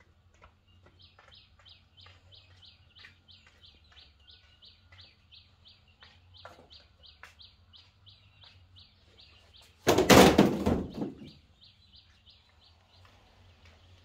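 A small bird repeats a short high chirp about three to four times a second, over scattered faint clicks. About ten seconds in, a loud harsh burst cuts across it for just over a second.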